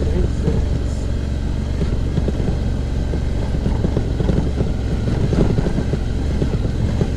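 Suzuki V-Strom motorcycle engine running at a steady pace on a dirt road, with a constant low rumble and wind buffeting the microphone.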